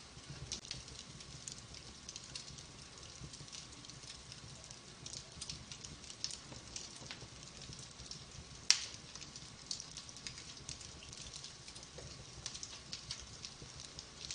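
Wood fire crackling: scattered small pops and snaps, with one sharper, louder pop a little under nine seconds in.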